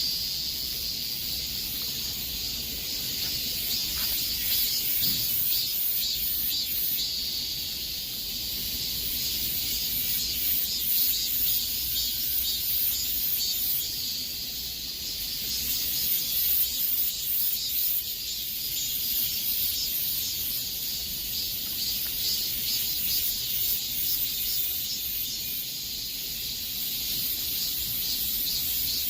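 Cicadas shrilling in a dense chorus, a continuous high-pitched buzz that swells and fades slightly in waves.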